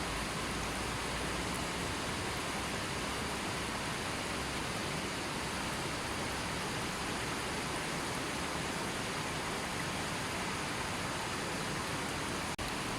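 River water flowing in a steady, even rush, with a momentary dropout near the end.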